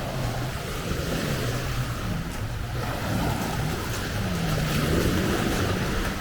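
Sea waves washing ashore, with wind blowing on the microphone.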